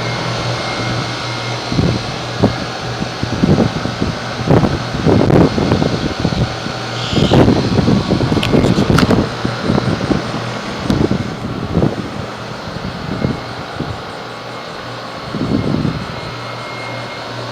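American Standard heat pump outdoor unit running with a steady hum, with irregular low rumbling bursts over it from about two seconds in until near the end.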